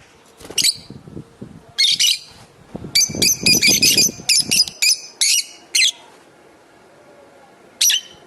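Lovebirds giving sharp, high-pitched calls: a couple of single calls early, then a rapid run of them for about three seconds in the middle, and one last call near the end. Some low rustling sounds under the first half.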